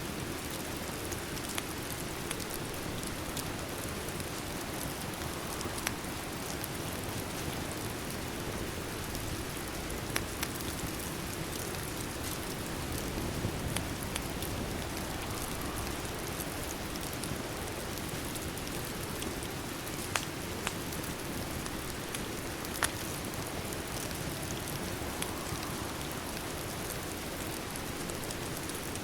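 Steady rain falling, an even wash of noise, with a few sharp single pops from a crackling wood fire scattered through it.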